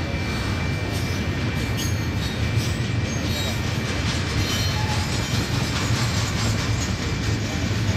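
Double-stack intermodal train's loaded well cars rolling past: a steady rumble of steel wheels on rail, with faint scattered clicks.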